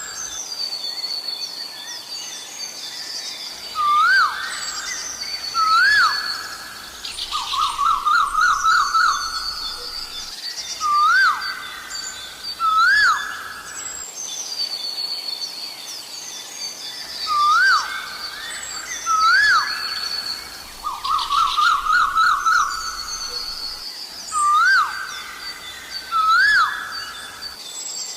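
Asian koel calling: a sharply rising call given in pairs, about every six to seven seconds, with a quick run of repeated notes twice. Smaller birds chirp steadily at a higher pitch.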